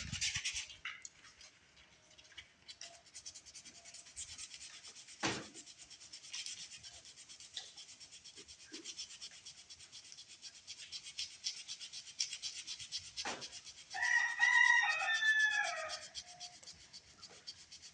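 Fast scraping and rubbing of metal against the painted steel frame of a mini bike, taking paint off to bare metal for a ground connection, with a couple of sharp knocks. Near the end a short, loud, pitched wavering call sounds over it for about two seconds.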